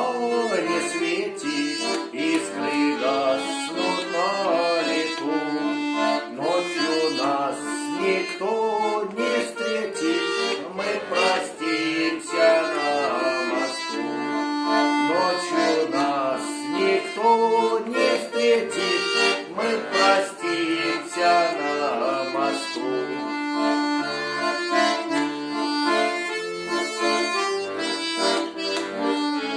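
Accordion playing a folk melody over sustained chords, with regular bass notes underneath.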